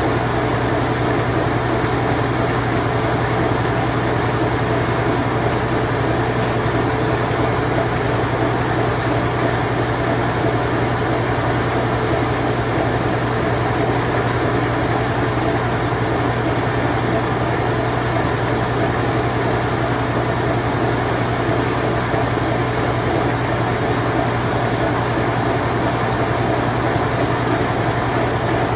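Late-1980s Whirlpool Imperial Clean Touch top-load washing machine in its spin cycle: a steady motor hum with a whir of rushing noise.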